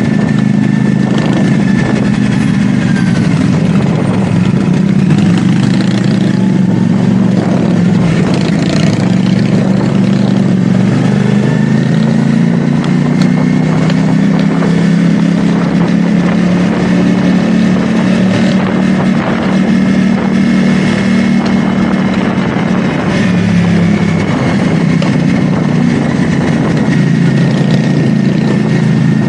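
CFMoto 450SR S motorcycle's parallel-twin engine running at fairly steady revs, its pitch drifting gently up and down, with a thin high whine over it.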